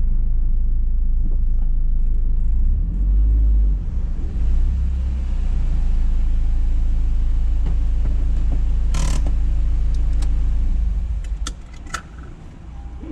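Dodge Caliber SRT4's turbocharged 2.4-litre four-cylinder, with a big turbo and catless downpipe, running with a loud, steady, deep exhaust drone. There is a brief hiss about nine seconds in. The drone drops away sharply about eleven seconds in, followed by a few light clicks.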